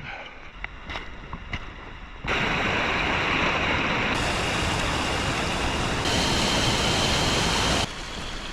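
Steady rush of water that starts abruptly about two seconds in and cuts off near the end, after a stretch of light scattered clicks.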